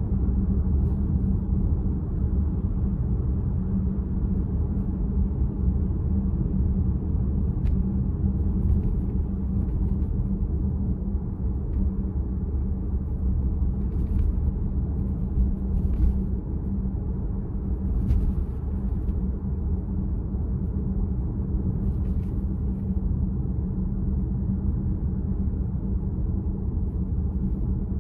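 Steady low rumble of road and tyre noise inside a VW ID.4 electric car while driving, with a few faint clicks.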